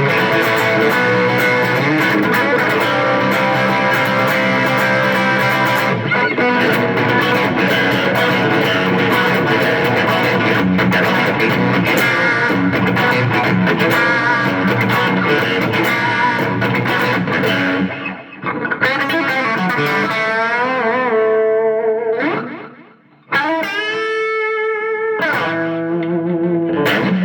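Electric guitar played through a Roland Micro Cube practice amp set to a distorted amp model with delay: about eighteen seconds of dense riffing. This is followed by wavering string bends that pull the notes out of tune, with a short break about 23 seconds in.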